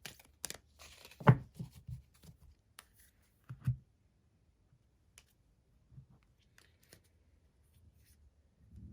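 A deck of Earth Magic Oracle cards being shuffled and handled by hand: quick papery clicks over the first couple of seconds, louder knocks about a second in and again near four seconds, then only a few faint clicks as a card is drawn.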